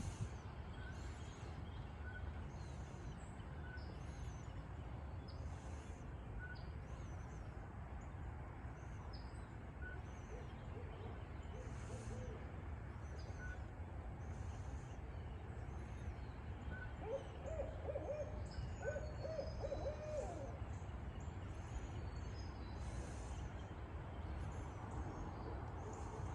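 Barred owls hooting: a faint series of hoots about ten seconds in, then a louder run of several quick hoots from about seventeen to twenty seconds in, over a steady low background rumble.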